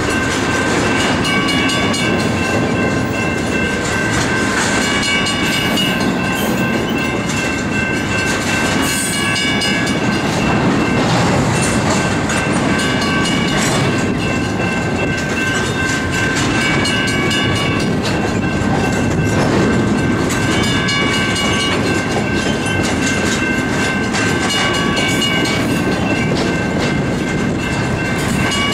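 Double-stack intermodal well cars rolling slowly past: a steady rumble with wheel clatter over the rail joints, and a high metallic squeal that comes and goes.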